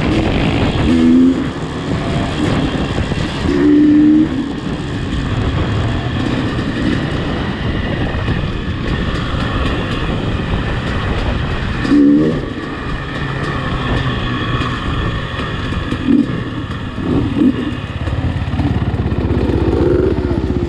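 A motor vehicle's engine running steadily while on the move, with a few brief louder moments.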